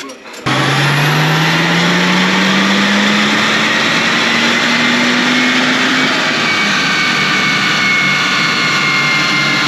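BMW 335d's 3.0-litre twin-turbo straight-six diesel making a full-throttle power run on a chassis dyno. The engine note climbs steadily in pitch for about five seconds, then holds level, under a loud rush of tyre and roller noise.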